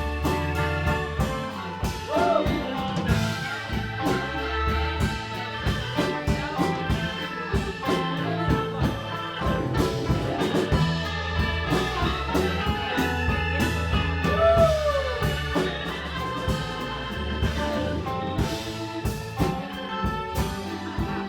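Live band playing with drum kit, bass and guitar, a lead line bending its notes up and down twice.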